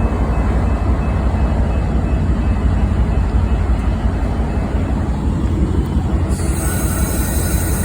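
Train rolling past with a steady low rumble. A high hiss joins suddenly about six seconds in.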